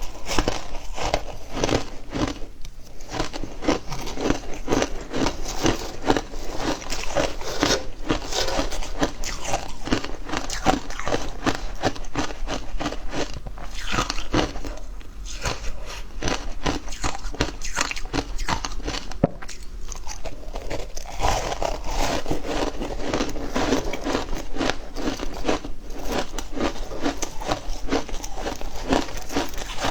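Close-up crunching and chewing of frozen matcha ice, a dense run of rapid crackling crunches as the ice is bitten and ground between the teeth.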